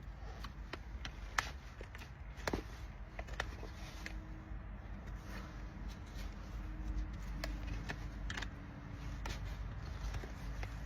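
Hoof-trimming tools working on a horse's hoof: irregular sharp clicks and short scrapes over a steady low rumble.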